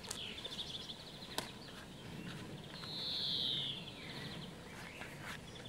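Small birds chirping and singing, with a longer high note sliding slightly down about three seconds in as the loudest sound, and a few faint clicks.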